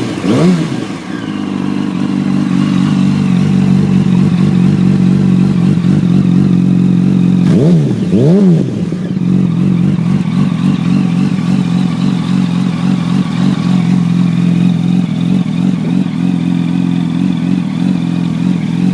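2008 Yamaha YZF-R1's inline-four engine idling through an FMF Apex carbon-fibre slip-on exhaust, blipped once right at the start and twice in quick succession around the middle, each rev rising and dropping straight back to idle.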